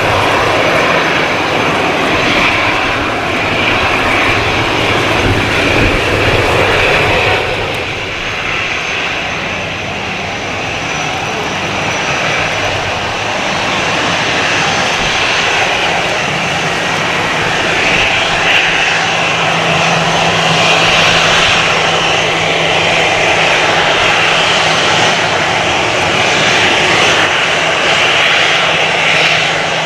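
Jet engines of Airbus narrowbody airliners, loud throughout: one aircraft's engine noise eases off a little about eight seconds in, then the next airliner's engines build up with a steady low hum and a strong hiss.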